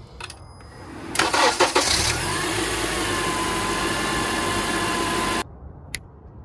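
2004 Acura TSX's 2.4-litre four-cylinder engine starting: brief cranking about a second in, then it catches and settles into a steady idle. No belt squeal on the new serpentine belt. The sound cuts off suddenly near the end.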